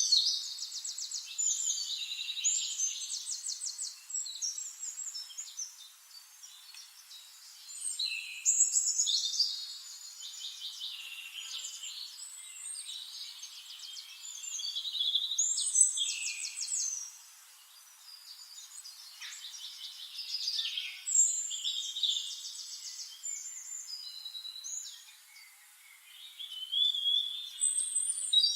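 Songbirds singing: repeated phrases of fast, high trills and whistles, a new phrase starting every six or seven seconds.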